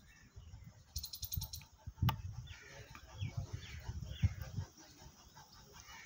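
A few short bird chirps about halfway through, over low thuds and knocks that are the loudest sound. A sharp click comes about two seconds in, and a quick high rattle about a second in.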